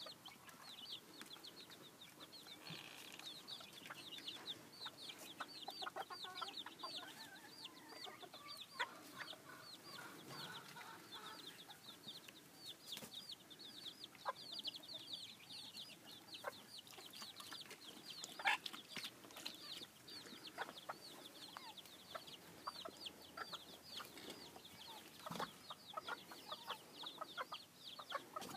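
Chickens clucking quietly while chicks keep up a rapid stream of high, falling peeps. A few sharp clicks or knocks come through now and then.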